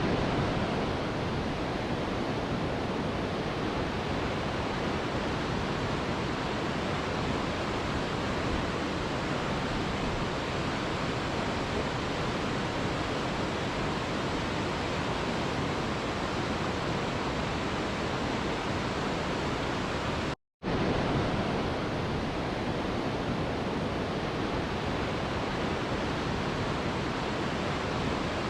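Mountain river rushing over rocks: a steady, even wash of water noise, broken once by a split-second gap of silence about two-thirds of the way through.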